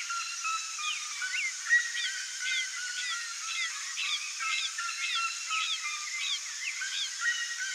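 A dense chorus of many birds calling at once: short chirps and quick sweeping notes overlapping without a break. A steady high hiss runs beneath them.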